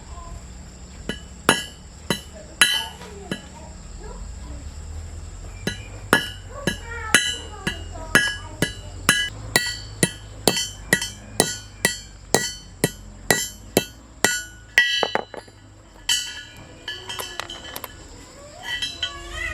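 Hammer striking metal with a bright ringing note on each blow. A few scattered blows come first, then a steady run of about two blows a second that stops about two-thirds of the way through.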